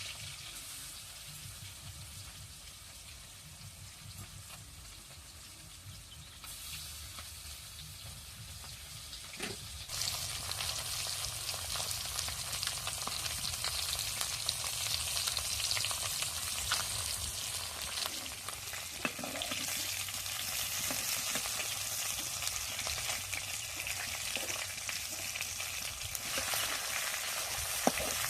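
Oil sizzling in a pan as food fries, with scattered clicks of a utensil being stirred through it. The sizzling grows louder about ten seconds in.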